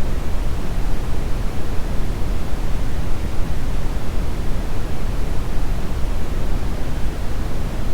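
Steady, unchanging brown noise: a deep, even rumbling hiss, strongest in the bass and falling off toward the treble.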